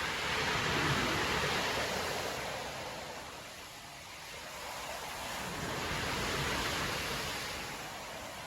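Storm surf breaking on a beach: a rushing wash of waves that swells about a second in, eases off, then swells again around six seconds.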